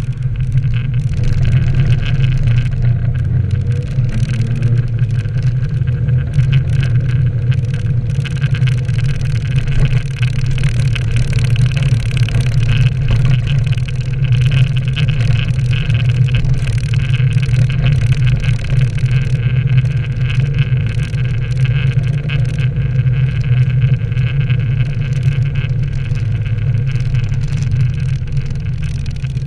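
Nissan 240SX (S13) driving on a wet road: a steady engine drone with road and tyre noise, the engine pitch rising and falling slightly in the first few seconds.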